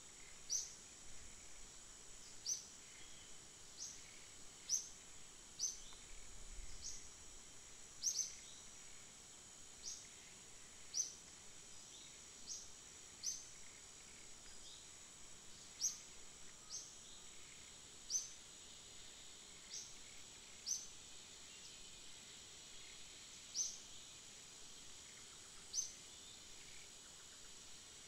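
A bird giving short, sharp, high downward chirps, irregularly every second or two, over the steady high drone of insects.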